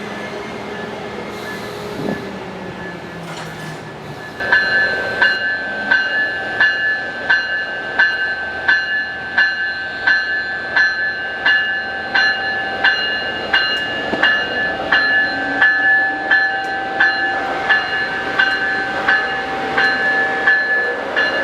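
A train's warning bell starts ringing about four seconds in and keeps striking steadily, about one and a half times a second. It rings over the rumble of a train at the station.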